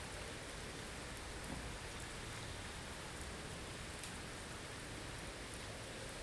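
Blizzard ambience: a steady, even hiss of wind-driven snow, with a few faint ticks scattered through it.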